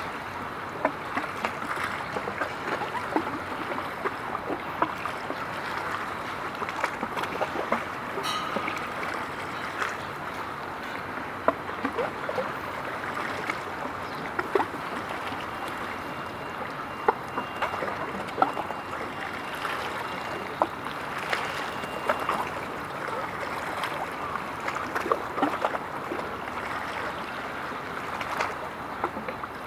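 Water washing and splashing at the waterside: a steady rushing wash broken by frequent small splashes.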